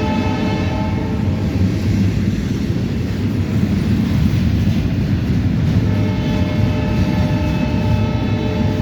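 Diesel-hauled intermodal freight train passing at track side, its air horn sounding and fading out about a second in, then the steady low noise of the train rolling by.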